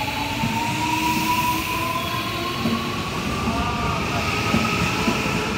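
Electric commuter train pulling away along the platform, its motor whine rising slowly and steadily in pitch as it picks up speed, over a steady rumble of wheels on rail.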